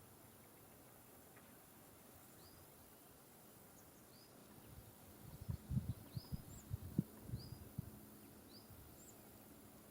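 A small bird gives short high chirps about once a second, each one dipping in pitch. Halfway through, a cluster of low thumps is the loudest thing heard.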